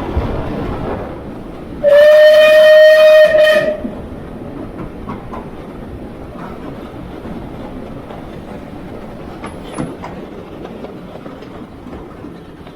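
Heritage railway train running, with steady rumble and wheel clicks on the rails. About two seconds in, the train's whistle gives one loud blast of nearly two seconds.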